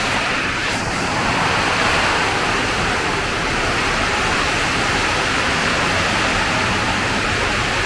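Heavy tropical monsoon downpour: a steady, unbroken rush of rain.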